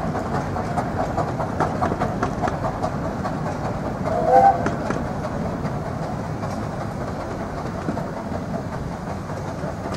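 Miniature 15-inch gauge steam train running past, the coach wheels rumbling and clicking over rail joints and points. About four seconds in comes a brief whistle-like tone, the loudest moment.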